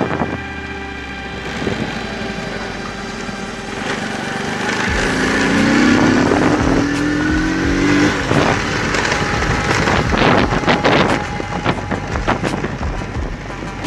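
Lifan 100 motorcycle engine running on the move, its pitch rising as it speeds up about five seconds in.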